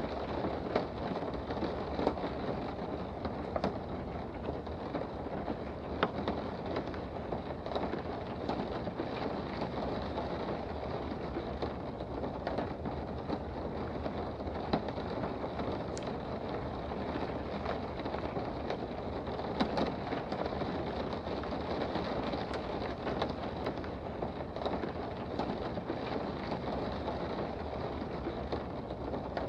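Steady rain heard from indoors: a constant hiss with scattered sharp taps of drops throughout.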